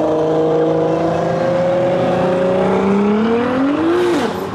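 A car engine accelerating hard, its pitch rising steadily for about four seconds, then dropping sharply near the end.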